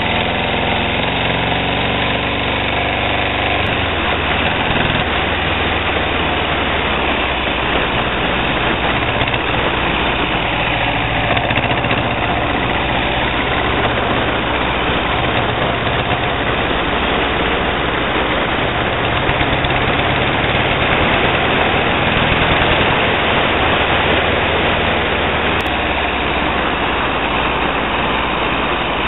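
Car engine running steadily at low revs, with no sharp revving.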